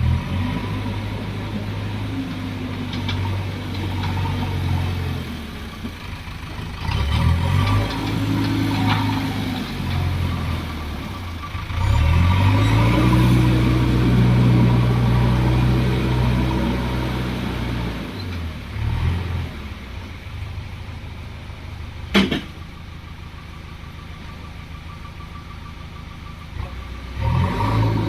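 Backhoe loader's diesel engine working, its revs swelling up and falling back several times as the machine digs and loads, with a single sharp knock about two-thirds of the way through.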